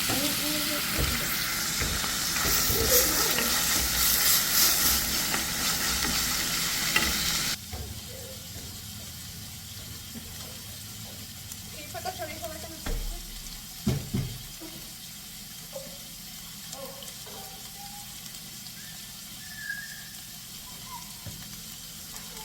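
Chorizo and eggs frying in a pan, sizzling loudly, until the sound drops abruptly to a quieter sizzle about a third of the way in. A couple of short knocks come later.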